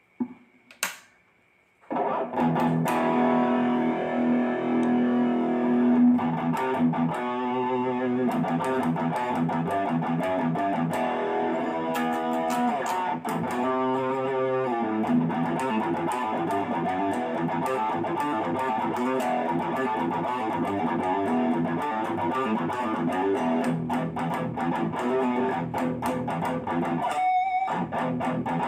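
Legend Les Paul electric guitar being played, with two short clicks and then the playing starting about two seconds in and running on continuously. Some notes waver in pitch.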